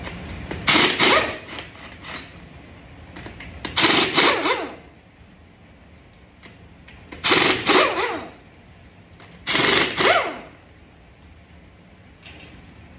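Impact wrench run in four short bursts, hammering fasteners loose.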